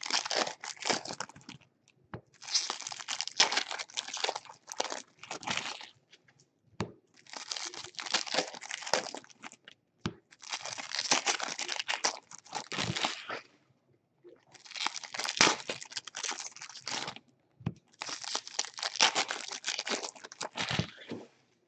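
Trading-card pack wrappers being torn open and crumpled by hand. About six bursts of tearing and crinkling, each lasting one to three seconds, with short pauses between them.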